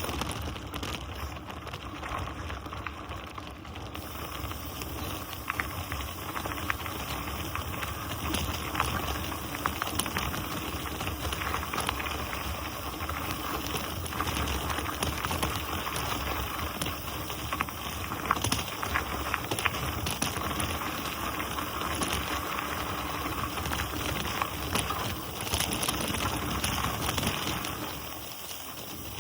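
Mountain bike rolling fast down a dirt trail: a steady rush of tyre noise with many small clicks and rattles, easing off near the end.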